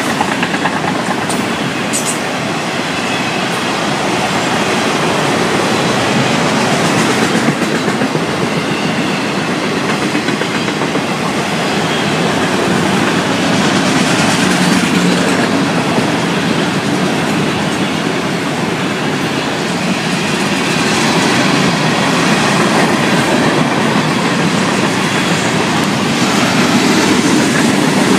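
Florida East Coast Railway freight cars, autoracks and then tank cars, rolling past close by: steel wheels running on the rails, steady and loud.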